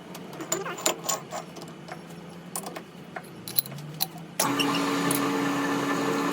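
Metal parts clinking and tapping for about four seconds. Then a power tool starts suddenly and runs at a steady speed.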